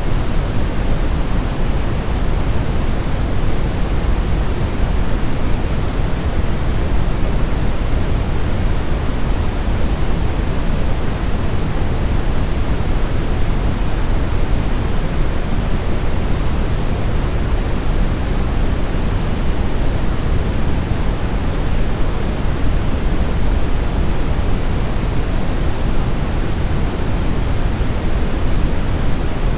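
Steady brown noise: a constant, deep rushing hiss, strongest in the low end and unchanging throughout.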